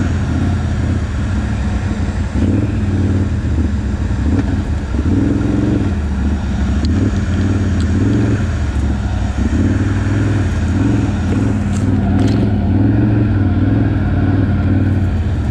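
ATV engine running steadily at low speed, its note rising and falling a little with the throttle.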